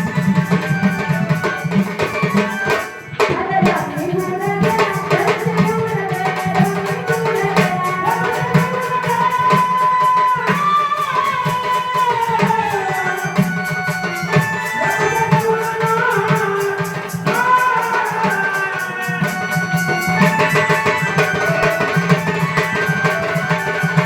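A woman singing a Marathi devotional Ramayan narrative song with a melody that glides up and down, accompanied by a hand drum and rattling percussion keeping a steady beat. The music drops out briefly about three seconds in.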